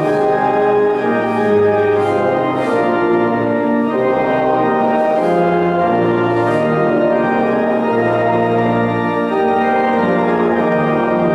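Church organ playing slow, held chords over low bass notes that change every second or two.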